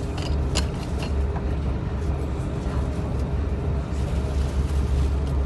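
Passenger train running, heard from inside the carriage as a steady low rumble, with a couple of light clicks in the first second.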